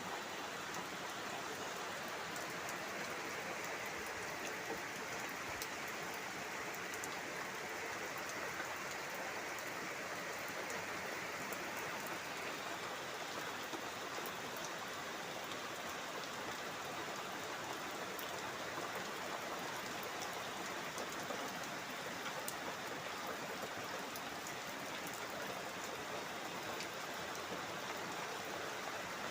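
Steady rain falling, an even hiss of water with scattered sharper drop ticks.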